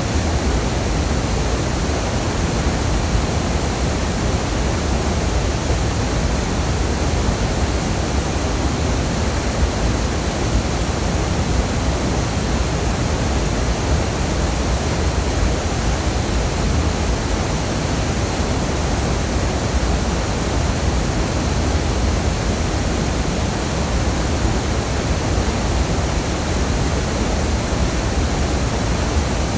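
Waterfall: a loud, steady rush of falling water that never lets up.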